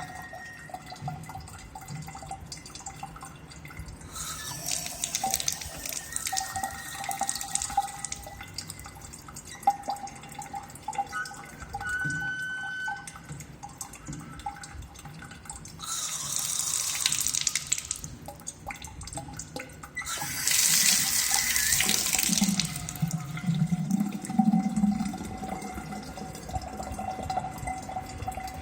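Faulty faucet making a steady high-pitched whine, with water rushing from it three times for a few seconds each. The owner thinks the noise and dripping may come from an aged, hardened rubber washer or a failing ceramic valve inside the tap.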